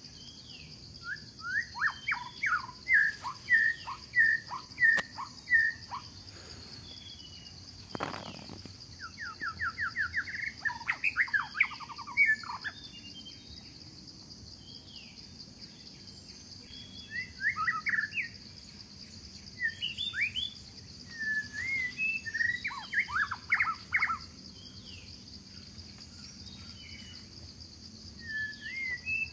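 Songbirds singing in several bouts of quick, repeated chirping notes over a steady, high insect drone.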